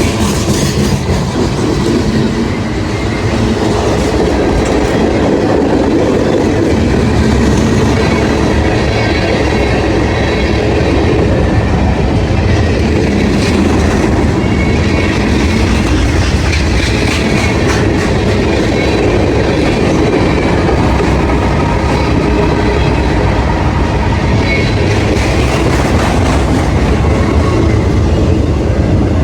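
Freight train cars rolling past steadily, their wheels clicking over rail joints throughout.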